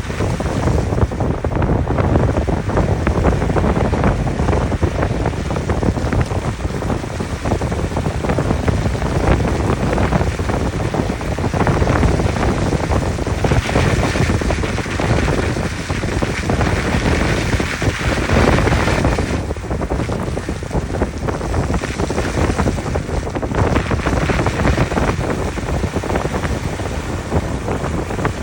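Jeep Gladiator Rubicon driving on an unpaved country road: a steady rush of tyre and road noise with wind. The hiss swells for several seconds about halfway through.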